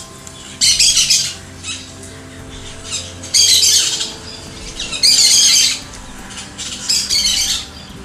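Four loud, harsh bird squawks, each under a second, spaced about one and a half to two seconds apart, over a soft sustained music pad.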